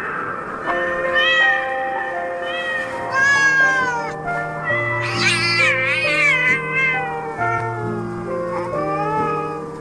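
A cat meowing again and again over slow background music of held notes; the loudest meow is a long wavering cry about five to six seconds in.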